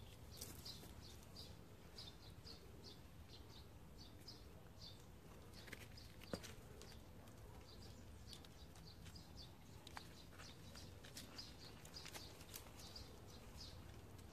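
Faint small birds chirping in quick repeated short notes over a low steady outdoor rumble, with one sharp click about six seconds in.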